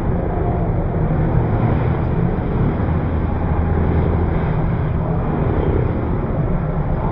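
Motocross bike engine running steadily, a low, even sound with no break.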